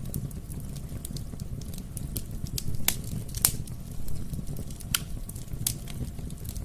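Wood fire burning in a fireplace: irregular sharp crackles and pops over a steady low rumble of the flames, with the loudest pops about three seconds in.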